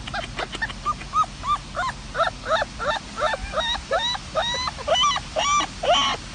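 Young animals giving many short, high, squeaky cries, each rising and falling in pitch. There are about three a second, overlapping from more than one animal and growing louder and busier toward the end.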